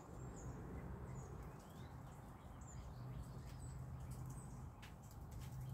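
Faint outdoor ambience with a few short, high bird chirps scattered through it and a low hum underneath.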